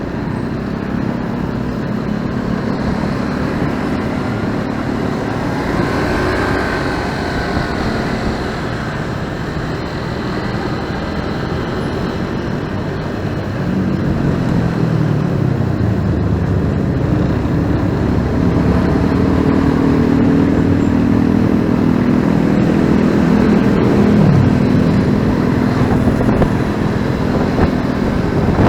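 Motorcycle engine running while riding on a city road. About halfway through it gets louder, and the engine pitch rises and falls as the bike speeds up and changes speed.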